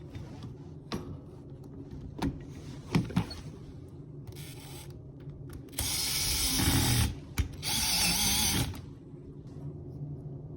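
Power drill/driver running in two bursts of about a second each, with a few sharp clicks of handling before them; it is driving the screws back in to reassemble the dishwasher's drain pump.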